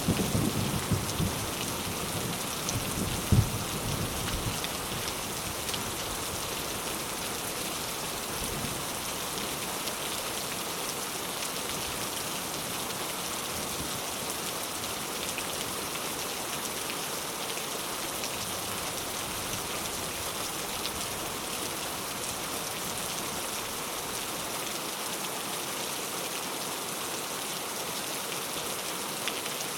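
Heavy rain falling steadily on surfaces, an even hiss of many drops. In the first few seconds a low rumble of thunder fades out.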